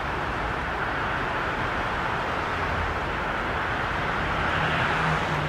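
Long Island Rail Road electric train approaching the station, a steady rumble of wheels on rail that grows a little louder. A low steady hum joins near the end.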